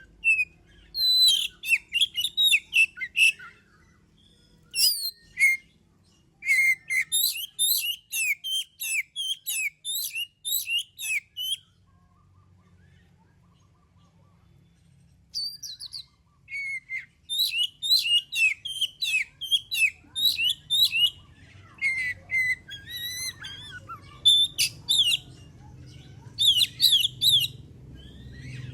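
Oriental magpie-robin (kacer) in full, vigorous song: fast runs of varied whistled and chattering notes. The song breaks off for a few seconds about halfway through, then starts again.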